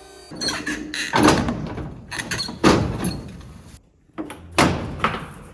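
A series of sudden thuds, four or five over a few seconds, each trailing off briefly.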